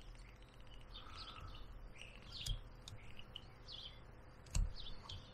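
Small songbirds chirping in the background: short, high, falling calls repeated every second or so. A low knock comes a little over four and a half seconds in.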